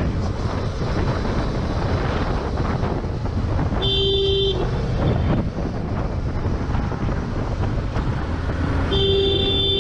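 Steady wind and traffic noise on a riding camera's microphone, with a vehicle horn blowing twice, each blast under a second: once about four seconds in and again near the end.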